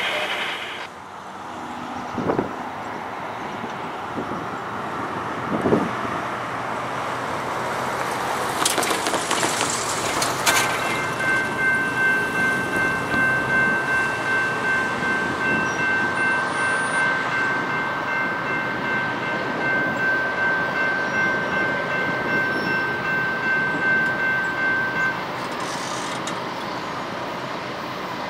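A train passing: the rumble of the train builds over the first ten seconds. About ten seconds in, a steady high-pitched ringing tone joins and holds for some fifteen seconds over a pulsing rumble.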